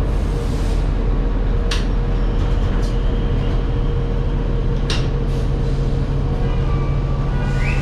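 Steady low rumble of a moving rail car, with a faint constant hum and two sharp clicks about three seconds apart.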